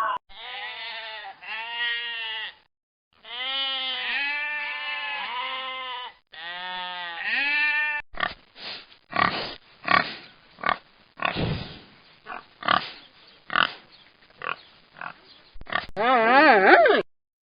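Pig grunting: a run of short, rough grunts at about two a second through the middle of the clip. It is preceded by several repeated pitched animal calls that rise and fall, and a wavering animal call follows near the end.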